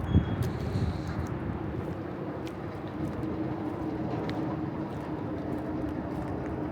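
Steady city background noise with a low vehicle hum that comes in a couple of seconds in and grows stronger; a single thump right at the start.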